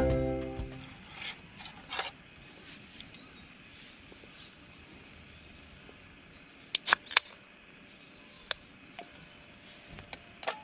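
The last of a piece of music dies away, then quiet outdoor background with a few scattered short clicks and knocks, the loudest a quick group of three about seven seconds in.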